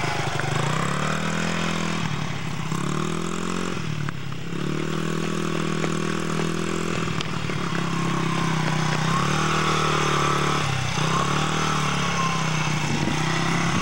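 Small motorcycle engine running as it is ridden, its pitch climbing and dropping back every couple of seconds as the throttle is opened and eased off by a hesitant beginner rider.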